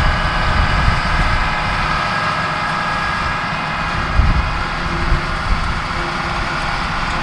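Farm tractor running steadily, a low engine rumble under a layer of steady whining tones, as it sets off to mow hay.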